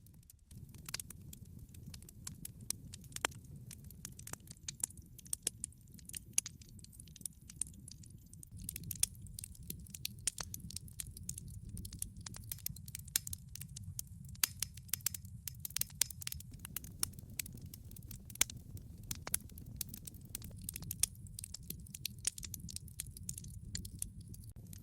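Wood log fire burning: a steady low rumble with many small crackles and pops, coming thicker from about nine seconds in.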